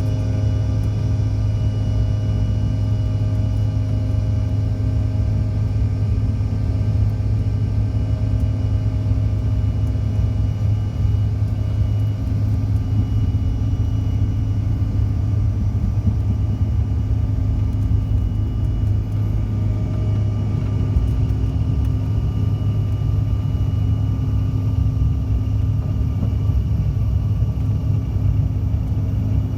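Steady cabin drone of a CRJ700 regional jet: a strong low hum of its rear-mounted turbofan engines and airflow, with faint steady whining tones above, unchanging throughout.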